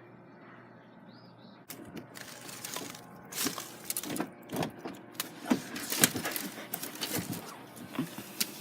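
Objects being handled, rattling and clicking: quiet at first, then a dense run of clicks and rattles starting about two seconds in.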